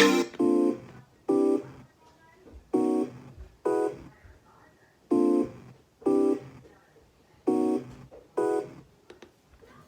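Sparse electronic beat played on a Maschine+ groovebox: a short pitched sample or synth stab struck in pairs, eight hits in all, with no drums and near silence between the hits.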